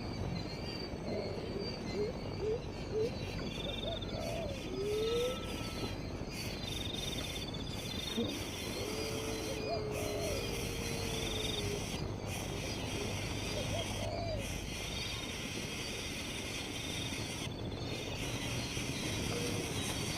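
Outdoor nature ambience: a steady high insect drone with a few trills, and short rising chirps of a small animal now and then.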